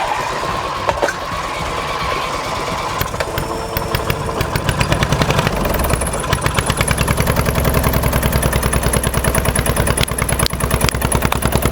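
Old lawn tractor's small engine starting up. It catches about four seconds in and then runs with a rapid, even popping beat.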